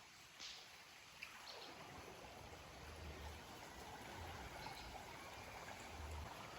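Faint, steady rush of a flowing river, with a light tick or two in the first couple of seconds.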